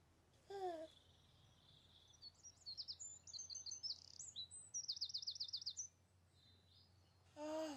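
Birdsong: high chirps and a fast trill of about ten notes a second in the middle, with a short falling call about half a second in and again near the end.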